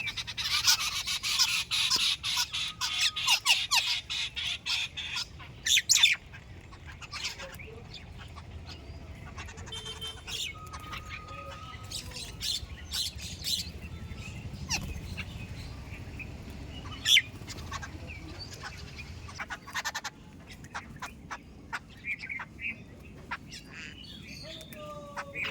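A flock of birds at a feeding spot chirping and squawking. It is a dense chatter for the first six seconds or so, then thins to scattered single calls.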